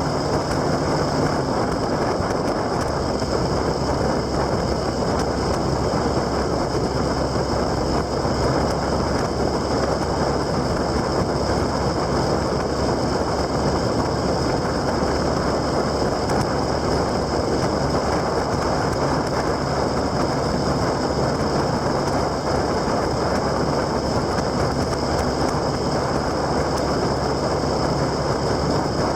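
Steady wind and road rush from a moving motor vehicle, over a low engine drone whose pitch shifts slightly about a second in.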